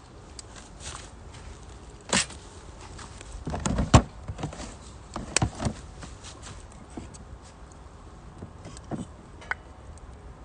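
Wood fire crackling in a small wood-burning camp stove, with irregular sharp pops and snaps. About four seconds in comes a louder cluster of pops with a low thump.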